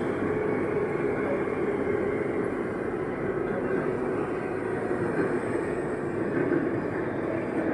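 Metro train running between stations, heard from inside the carriage: a steady rumble of wheels and running gear.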